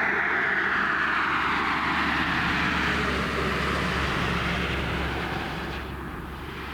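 A vehicle passing on the highway: a loud rush of tyre and engine noise that slides down in pitch and fades away near the end, over a steady low hum.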